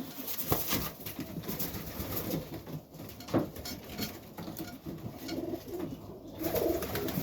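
Serbian highflyer pigeons cooing in a loft, with a few short clicks.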